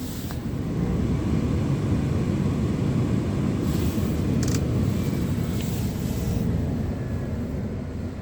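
Scania R tractor unit's engine running under way with a deep, steady rumble that swells over the first second and eases off towards the end.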